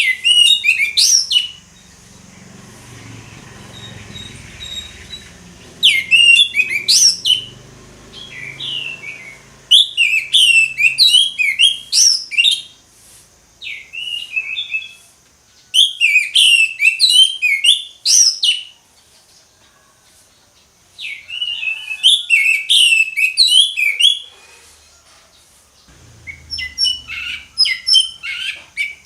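Orange-headed thrush (anis merah) singing its full, loud song (ngeplong): repeated bursts of rapid, varied whistled and chattering notes, each a second or three long, with short pauses between them.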